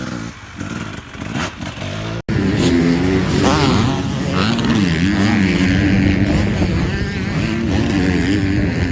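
Two-stroke motocross bike engine revving up and down as it is ridden. There is an abrupt cut about two seconds in to a louder engine passage with the pitch rising and falling over and over.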